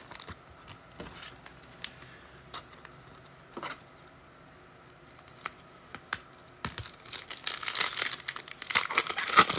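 A few scattered light clicks, then, from about seven seconds in, the dense crinkling and tearing of a trading-card pack's wrapper being ripped open.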